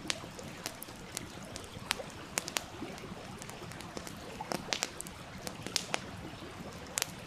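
Wood fire crackling with sharp, irregular pops, a few a second and bunched a little past halfway, over the steady rushing of a stream.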